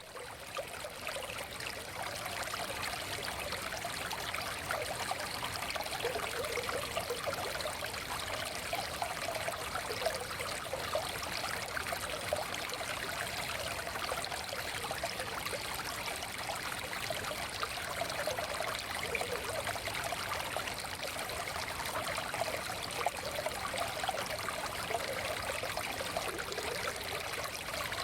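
Shallow stream flowing steadily over stones, an even rush of water dotted with small trickles and splashes. It fades in over the first second or two.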